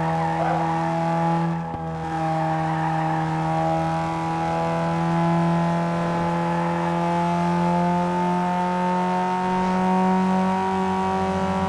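Renault Mégane 2.0 turbo engine running at steady high revs, its pitch creeping slightly upward over the second half, with a brief dip about two seconds in.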